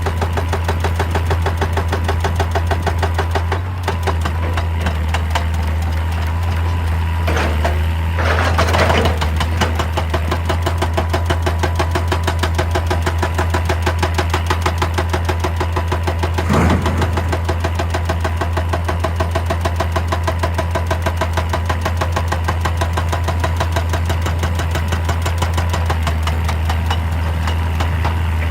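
Excavator's diesel engine running steadily with an even pulsing beat of about three a second. There are two short louder rushes of noise, one about a third of the way in and another just past halfway.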